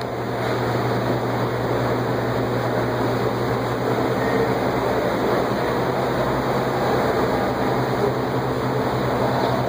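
Steady background of a large exhibition hall: a constant low hum, like ventilation or air handling, under an even wash of room noise, fading up over the first second.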